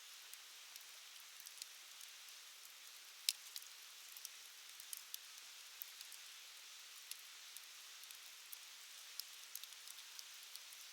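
Wood fire crackling: a soft steady hiss with irregular sharp pops, one louder pop a little over three seconds in.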